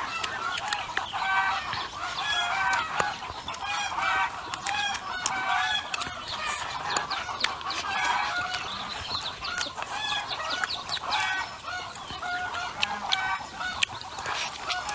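Chickens clucking, with many short calls overlapping throughout, and scattered sharp clicks among them.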